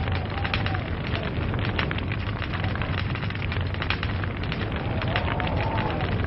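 Log fire burning, wood crackling and popping in a dense, irregular stream of sharp snaps over a steady low rumble and hiss. A faint wavering tone comes in near the end.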